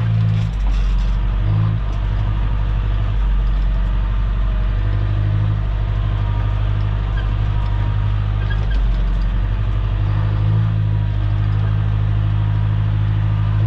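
Engine of a machine spreading and working gravel road base, running steadily with a low drone that dips briefly a few times.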